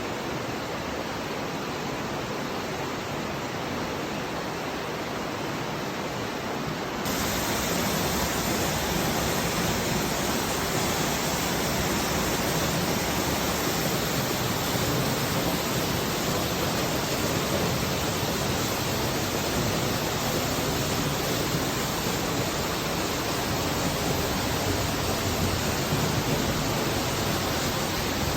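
The Aare river rushing through a narrow rock gorge: a steady rush of fast-flowing water, which gets louder and brighter about seven seconds in.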